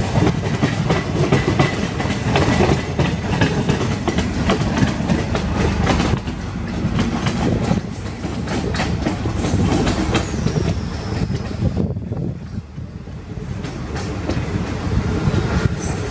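Passenger train running at speed, heard from an open coach window: wheels clattering over the rail joints with a dense run of clicks that thins out after about six seconds. The noise dips briefly near the end.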